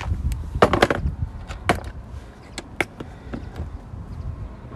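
Car tool kit being taken out and opened: a string of sharp clicks and knocks from handling the kit and its tools, loudest in the first two seconds.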